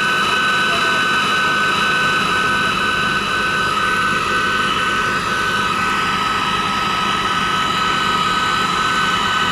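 Steady machinery noise with several high, whining tones and a fast, even beeping that repeats throughout.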